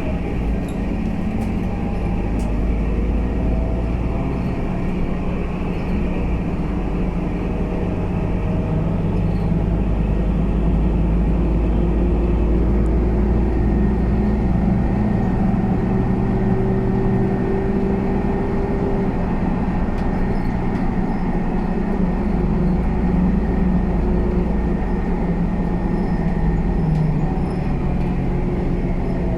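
Scania K320UA bus's five-cylinder diesel engine and drivetrain running under way: a steady low drone with engine notes that rise and fall in pitch as the bus pulls along.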